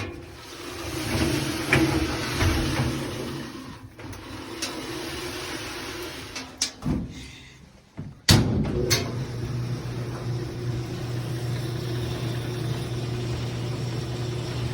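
A clothes dryer running, its drum turning with a steady hum and a rubbing, scratching sound, from drum glide bearings and top plastic worn through. About eight seconds in it goes nearly quiet, there are a couple of sharp clicks, and it starts running steadily again.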